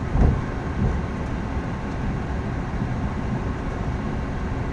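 Steady rumble of an Embraer ERJ 145's Rolls-Royce AE 3007 turbofans and rushing air, heard from inside the aircraft during its departure. There is a brief thump about a quarter of a second in and a lighter one just before the first second.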